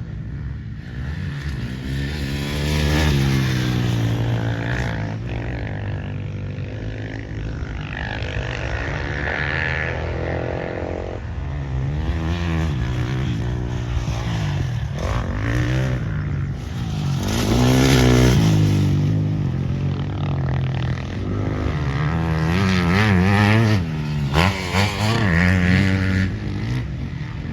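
Motocross bikes riding the track, their engines repeatedly revving up and dropping back as they go through the gears and over jumps, swelling loudest as bikes pass close, several times.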